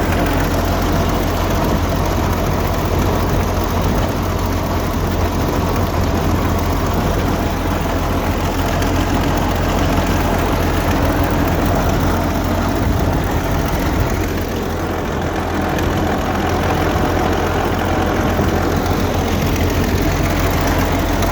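Caterpillar Diesel 75 crawler tractor's diesel engine running steadily under load while pulling a plough, with a strong low hum, easing off slightly about two-thirds of the way through.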